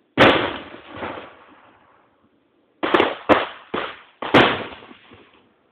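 Aerial firework shells bursting: one loud bang just after the start that trails off over more than a second, then a quick run of four bangs about three seconds in.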